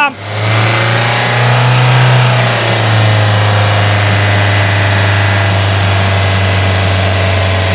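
Ford Focus 2.0 TDCi four-cylinder diesel engine brought up from idle and held at a steady raised speed under full electrical load, with the alternator charging near its maximum output. Its pitch climbs a little about a second and a half in, then eases back slightly and holds steady.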